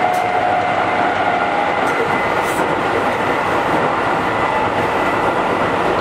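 Keihan 5000 series electric train running between stations, heard from inside the car: a steady rumble and rail noise that holds an even level.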